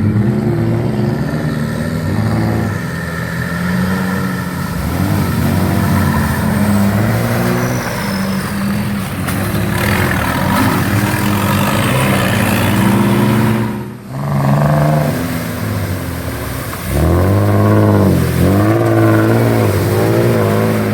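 Off-road 4x4 engine revving hard, its pitch rising and falling again and again, with a short drop-off about two-thirds of the way through before it picks up again.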